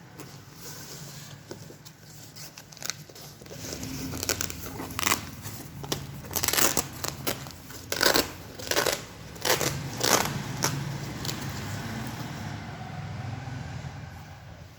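Fabric being handled or cut, giving a run of short crinkling, rustling bursts over a low steady hum.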